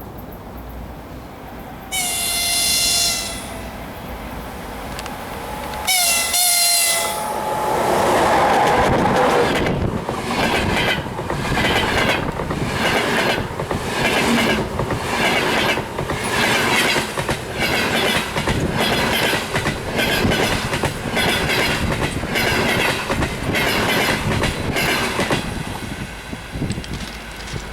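EP20 electric locomotive sounding its horn in two short blasts, each a chord of several notes lasting about a second, then passing at speed with a double-deck passenger train. The coaches' wheels clack over rail joints about once a second as the train goes by, easing off near the end.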